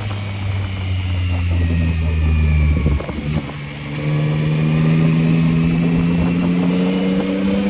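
Yamaha MT-09's three-cylinder engine under way, holding steady revs, then briefly dropping about three seconds in. It then accelerates with a long, steady rise in pitch that cuts off suddenly at the end.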